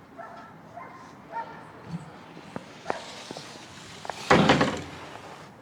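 Titan narrowboat canopy's front section folding down once its bolt pins are out: a few light clicks from the stainless frame, then a loud half-second burst of fabric and frame noise about four seconds in as it comes down.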